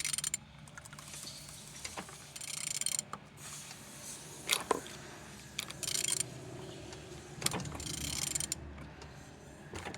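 CAYC diesel engine being turned over by hand, with irregular mechanical clicks and stretches of scraping. It turns well, a sign that the engine is free and not seized.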